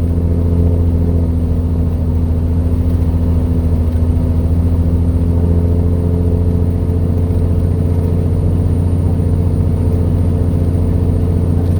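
Truck engine running steadily with a constant low drone, heard from inside the cab.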